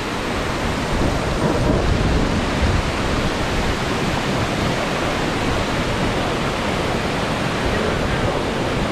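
Loud, steady rush of river rapids, whitewater churning, building over the first second and then holding.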